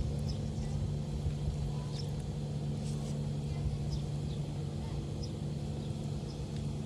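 A steady engine drone holding one pitch, with faint short high chirps of birds scattered over it.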